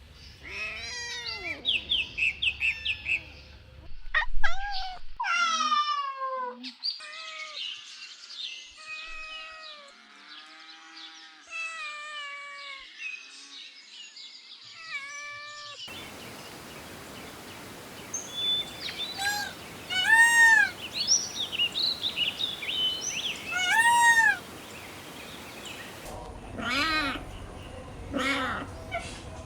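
Kittens meowing repeatedly: many short, high calls that rise and fall, including a quick run of short calls near the start. The background noise changes abruptly twice, as from separate recordings.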